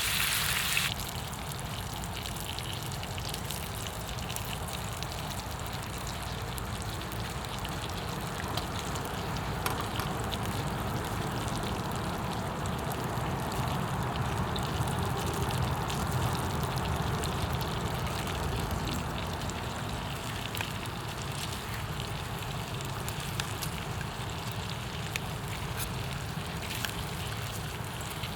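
Campfire burning, a steady hiss with frequent small crackles and pops over a low rumble. A brighter, louder hiss in the first second cuts off abruptly.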